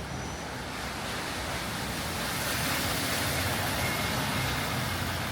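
A car passing on a wet road, its tyre hiss swelling to a peak mid-way and easing off, over steady rainfall.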